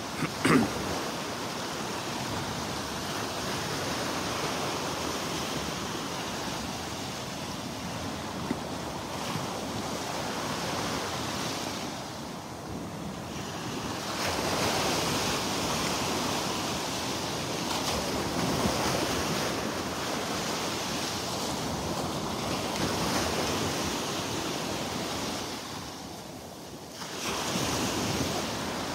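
Surf washing onto the beach in a steady wash of noise that swells and eases, with wind buffeting the microphone.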